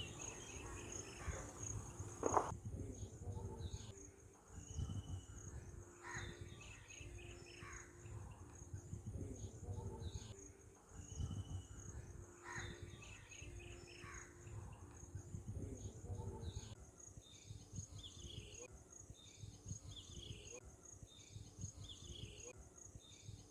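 Outdoor ambience: a steady, high, pulsing insect trill, with scattered short bird calls and a constant low rumble underneath.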